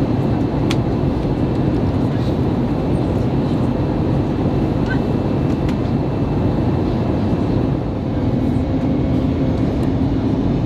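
Steady cabin noise of an Airbus A321neo in flight: a deep, even rumble of engines and airflow heard from inside the cabin, with a few faint clicks.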